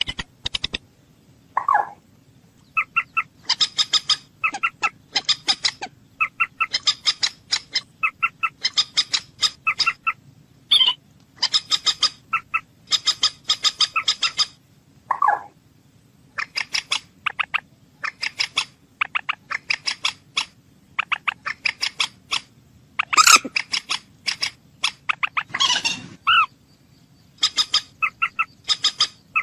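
Bird calling in repeated bursts of rapid clipped notes, each burst lasting about a second, with a few lower drawn-out calls between them and one louder harsh call about 23 seconds in.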